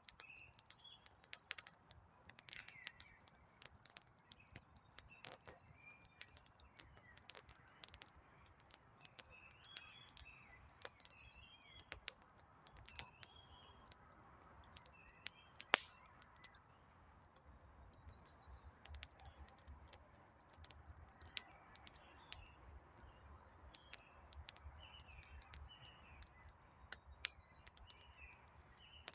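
Wood campfire crackling with frequent sharp pops, one louder pop about halfway through, while small birds call with short chirps throughout.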